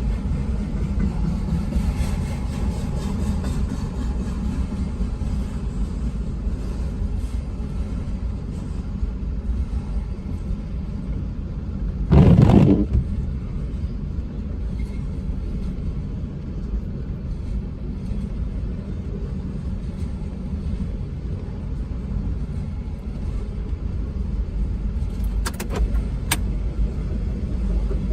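Freight train of auto-rack cars rolling past, a steady low rumble of wheels on rail. There is a loud, brief thump about twelve seconds in and a few sharp clicks near the end.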